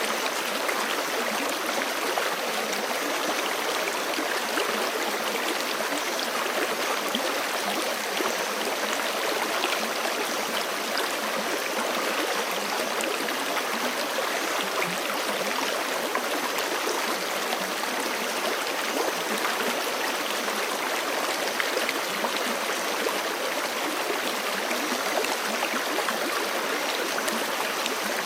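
Forest creek flowing steadily over rocks, a continuous rushing and gurgling of water with no change in level.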